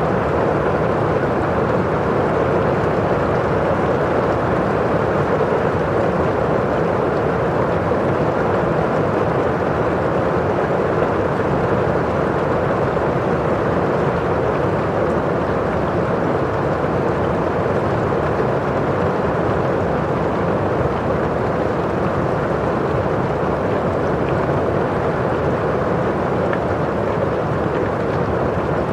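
Steady rain on a windowpane and outside, an even constant hiss with no single drops standing out.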